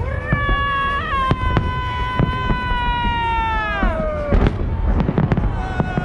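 Fireworks salute, with shells bursting in quick, irregular succession. Over the first four seconds a long, high-pitched held tone sounds above the bangs, then falls in pitch and stops.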